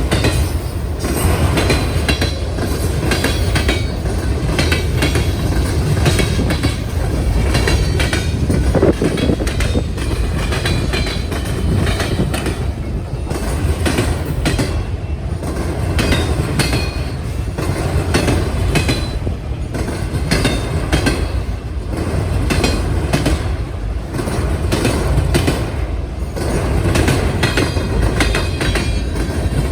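Railcars rolling over a railway diamond crossing: a steady low rumble with rapid, repeated clacking as the wheels strike the gaps in the crossing. Short high squeals from the wheels come and go.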